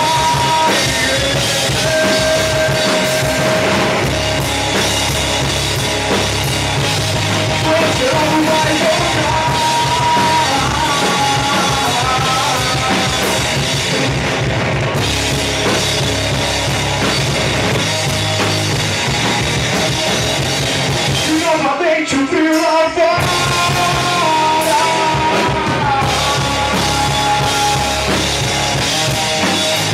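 Rock band playing an instrumental passage of the song, drums driving under a wandering melodic lead, with a brief break about three-quarters of the way through before the full band comes back in.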